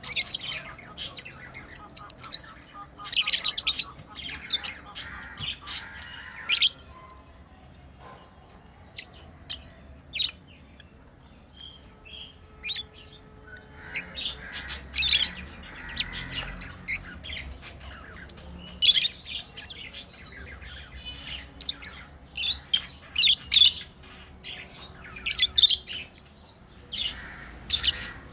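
Pet lovebirds chirping: many short, sharp, high calls in busy clusters, with a quieter stretch in the middle.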